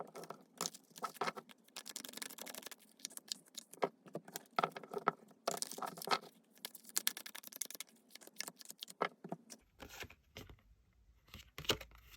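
Tarot cards being shuffled and handled on a table: a dense run of quick card clicks and rustling scrapes, with a faint low hum joining near the end.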